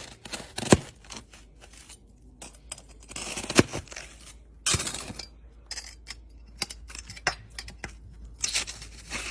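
Irregular sharp clicks mixed with short bursts of rustling handling noise. The loudest clicks come just under a second in and at about three and a half seconds.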